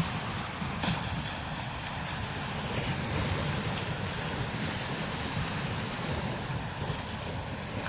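Strong desert wind blowing steadily across sand dunes, buffeting the microphone with a low rumble under a broad hiss.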